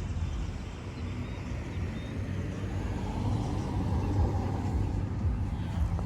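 A car engine running, with a low rumble that swells a little in the middle.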